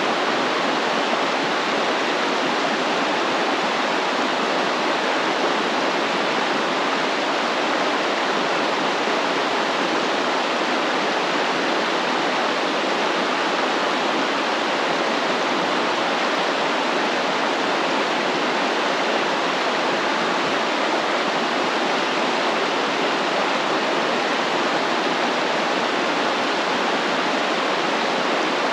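Stream water flowing: a steady, even water noise with no distinct splashes or calls standing out.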